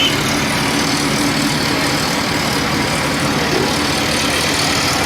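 A truck's engine running steadily under a constant rushing noise, with no sudden changes.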